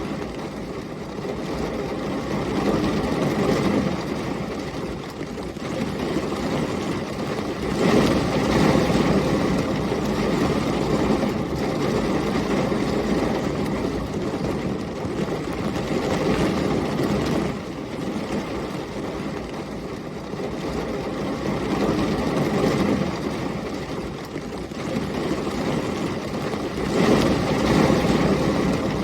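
Heavy rain and storm wind in a steady, dense rush with a deep rumble underneath. The rumble swells suddenly about eight seconds in and again near the end.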